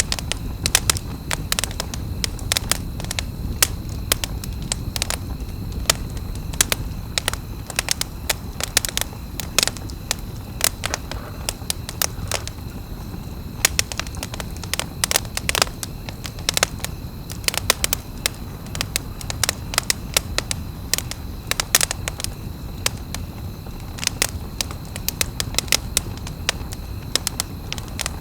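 Wood campfire crackling: frequent, irregular sharp pops and snaps over a low, steady background of burning.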